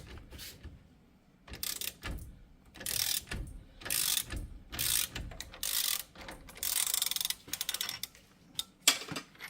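Ratchet wrench clicking in a series of strokes, roughly one a second, as a wheel-bearing puller is backed off, followed by a single sharp metal clank near the end.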